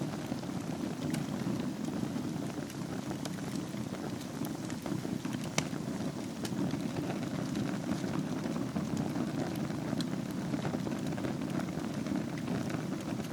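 Wood fire burning in a fireplace: a steady low rush of flames with scattered crackles and small pops, one sharper pop about five and a half seconds in.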